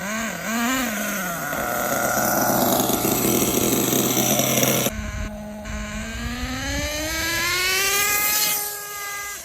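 Hong Nor Force .32 (5.2 cc) nitro engine in an RC truggy, being broken in at full throttle: it blips up and down at first, then runs flat out, and after a sudden change about halfway through it climbs steadily in pitch through another burst before dropping off near the end.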